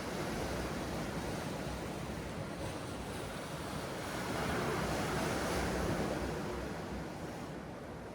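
Sea waves washing onto the shore, one surge building to its loudest about four to six seconds in and then falling away.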